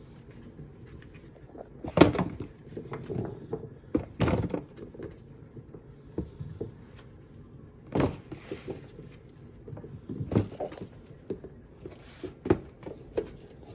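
Cut potato pieces being put into a bowl: irregular knocks and clatter against the bowl, the loudest about two seconds in and again about eight seconds in.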